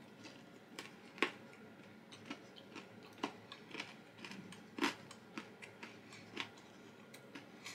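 Faint mouth-crunching and a few sharp, scattered clicks from eating karashi renkon (mustard-stuffed lotus root) that was microwaved until crispy.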